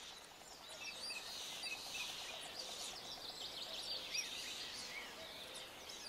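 Chorus of small birds chirping and whistling, many short overlapping calls.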